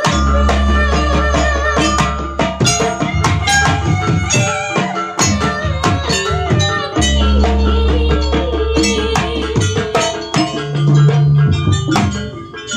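Live jaranan ensemble music: drums and struck percussion keep a busy rhythm over long deep bass notes, with a wavering melody line above.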